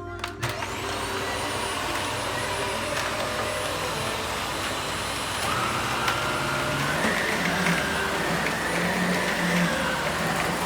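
Vacuum cleaner switched on, its motor spinning up within the first second to a steady running whine. About halfway through, the pitch of the running sound shifts upward.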